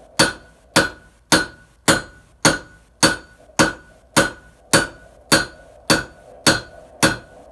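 Blacksmith's hammer striking a hot Damascus billet on the anvil in a steady rhythm, a little under two blows a second, each blow with a short ring.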